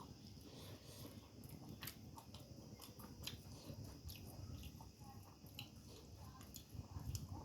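Faint sounds of a person chewing food, with scattered small clicks.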